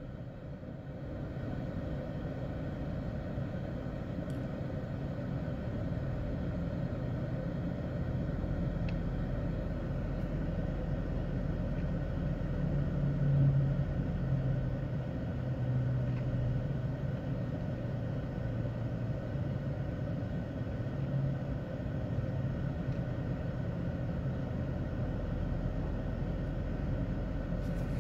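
A vehicle engine running with a steady low rumble, swelling briefly a little after the middle.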